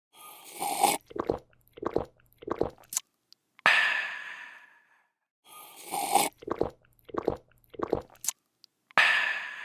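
A person drinking: a slurp, three quick gulps, then a loud refreshed "aah" that fades out. The sequence plays twice.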